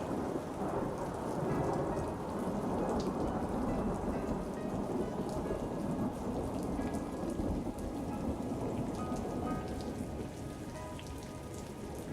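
Steady rain with a low rolling rumble of thunder that eases a little near the end, and faint musical notes underneath.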